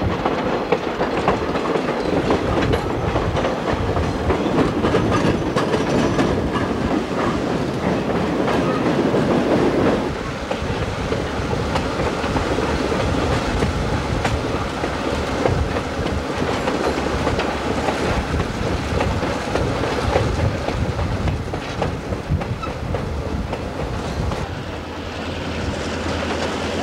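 Skunk Train passenger car rolling along the track, heard from aboard: a steady rumble with the wheels clacking over the rail joints. The sound eases a little about ten seconds in.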